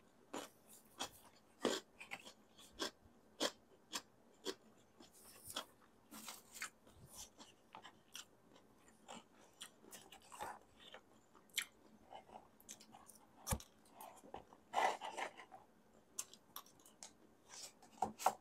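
Close-miked chewing and wet mouth sounds of someone eating pancit canton noodles, with small clicks throughout. A paper takeout bag rustles about ten seconds in.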